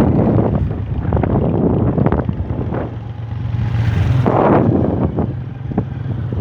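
Motorcycle engine running steadily while riding, with wind buffeting the microphone in uneven gusts.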